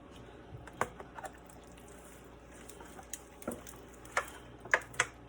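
Hands handling a raw, olive-oiled bird in a pan: soft squishing with a scattered run of short, sharp clicks and taps, the two loudest near the end.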